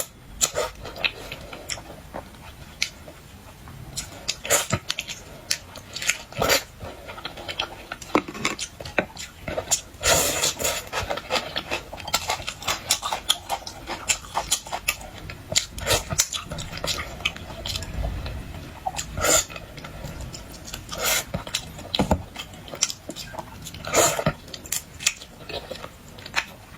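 A person eating boiled shellfish: irregular sharp cracks and crunches of shell being broken and chewed, with clinks of tableware.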